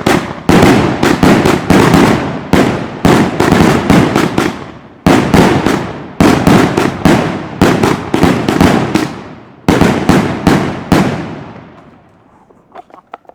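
Firecrackers going off in a rapid, irregular string of really loud bangs, several a second, stopping about eleven seconds in as the echo dies away.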